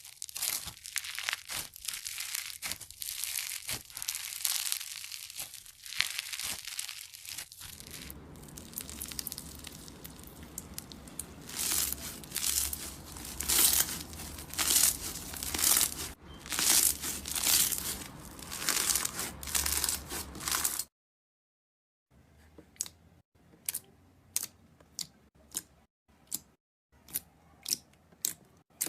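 Crunchy slime being worked by hand, crackling and crunching continuously at first, then in rhythmic loud squeezes. After a sudden break of about a second near the three-quarter mark, a run of sharp, evenly spaced clicks and pops follows.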